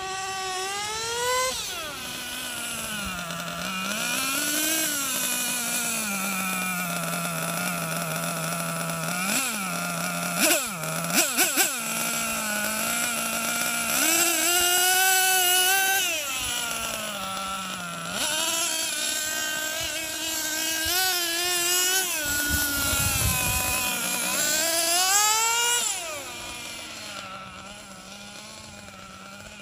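Two-stroke gas engine of a Losi XXL-2 Gas RC monster truck running and revving up and down, with several quick throttle blips about ten seconds in, then settling to a steady idle near the end. The engine is still being broken in and tuned on its fourth tank of fuel.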